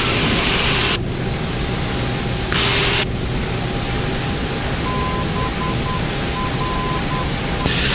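Steady loud hiss of cockpit and airflow noise in a Boeing 767 on final approach. A faint steady tone runs through it, and from about five seconds in a short run of dashed beeps sounds at one pitch.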